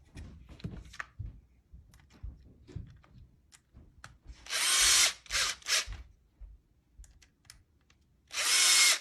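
Electric screwdriver driving Torx screws into a Heiniger Saphir clipper housing: a run of about a second, two short blips, then another run of about a second near the end, with light clicks of handling between. The screws are run in only partway, not fully tightened.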